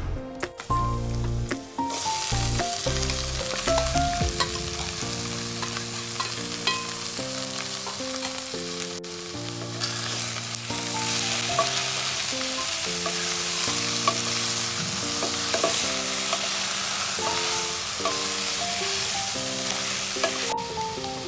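Small spiced fish sizzling as they fry in a stainless steel pot, stirred with a wooden spatula, with occasional scraping clicks. The sizzling starts about two seconds in, grows louder midway, and cuts off sharply near the end, over background music.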